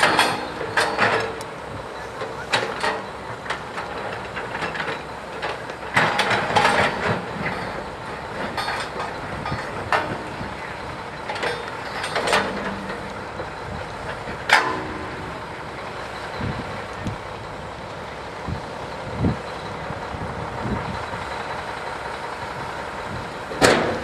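Heavy construction machinery running steadily, with repeated sharp metallic clanks and knocks from the work.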